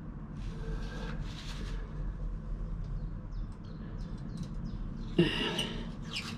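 Faint rustling and a few light clicks of hands handling parts in a boat's engine bay, over a steady low hum.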